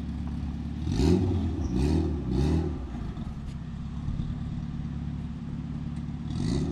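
A car engine idling steadily, revved three times in quick succession about a second in and once more near the end.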